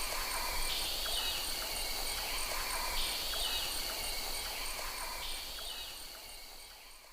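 Insect chorus: a steady high buzz with a fast, regular ticking above it, in a pattern that repeats every couple of seconds. It fades out near the end.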